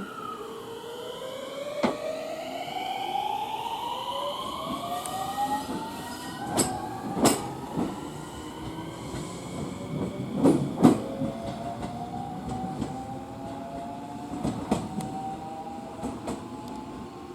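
Electric train pulling away, its motor whine rising steadily in pitch as it gathers speed, with sharp clacks of the wheels over rail joints, the loudest a pair about 10 to 11 seconds in.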